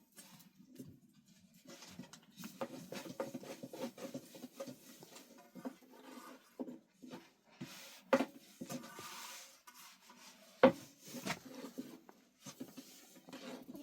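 Handling noises: irregular light knocks, clicks and rubbing, with one sharper knock about ten and a half seconds in.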